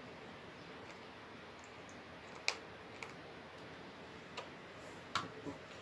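Scattered sharp clicks and taps from a screwdriver and the plastic casing of a hair dryer as its screws are tightened: about five clicks, the loudest roughly halfway through.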